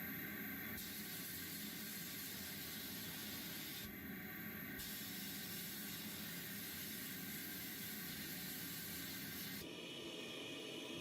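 Steady hissing air spray, with abrupt changes in its tone where the footage cuts.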